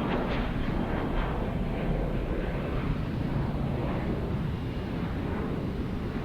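Jet airliner engines running at high power, a steady loud rumble, typical of an airliner on its takeoff roll.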